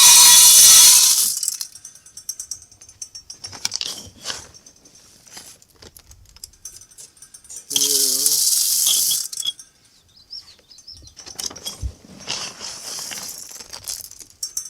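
Black sunflower seeds poured from a scoop into a bird feeder: a rushing rattle of seeds lasting about a second, twice, at the start and about eight seconds in, with smaller rustles and clicks of seed and scoop between.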